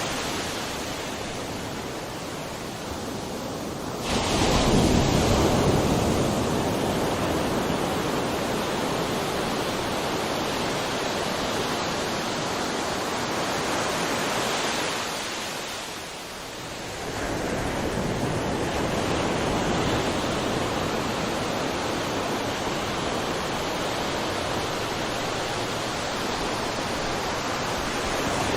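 Ocean waves breaking and washing on a shore: a steady rush of surf that swells suddenly about four seconds in and ebbs briefly around sixteen seconds before building again.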